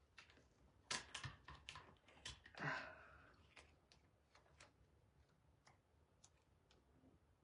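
Faint, scattered small clicks and taps from hands handling things on a work table, with a short rustle about two and a half seconds in.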